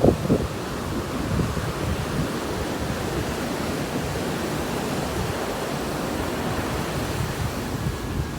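Ocean surf breaking steadily on a rough, windy day, with wind rushing over the microphone.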